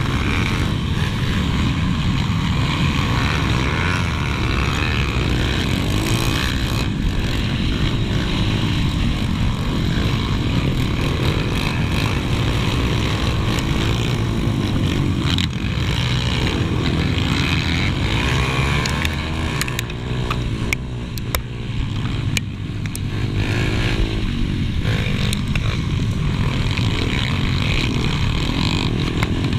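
Pit bike engine heard from on board during a race, revving up and down as the rider accelerates and backs off, with wind noise over it. About twenty seconds in, the engine note drops briefly and a few sharp clicks are heard.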